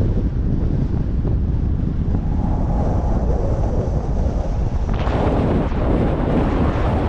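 Wind buffeting the microphone in a loud, steady low rumble, with a harder, hissing gust rushing in about five seconds in.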